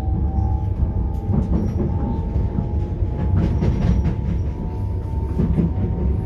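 Southeastern Class 395 electric train heard from inside the carriage as it gathers speed: a steady low rumble with a thin motor whine that rises slightly and then holds, and a run of wheel clicks and clacks over rail joints from about a second in.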